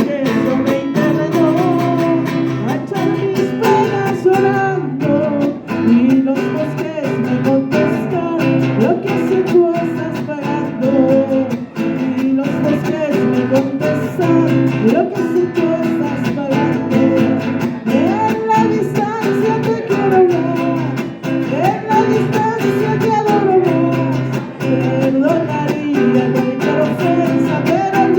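Acoustic guitar strummed and plucked, with a voice singing over it.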